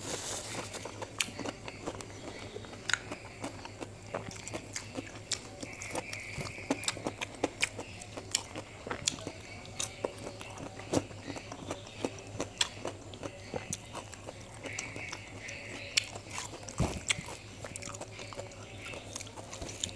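Close-miked mouth sounds of eating by hand: wet chewing and lip smacking, with many short sharp clicks scattered irregularly, over a low steady hum.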